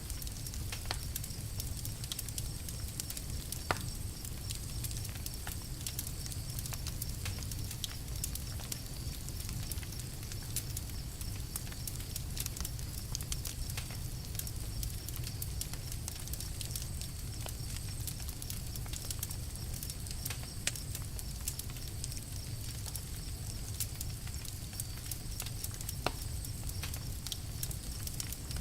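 Campfire crackling: irregular sharp snaps and pops over a steady low rumble, with a few louder pops.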